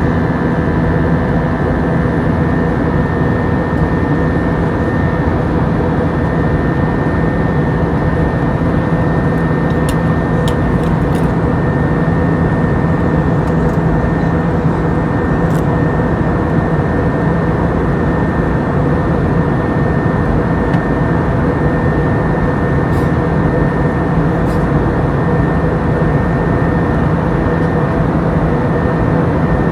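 Airbus A321 cabin noise in flight: the steady drone of jet engines and airflow with several steady humming tones. A few faint clicks come through in the middle.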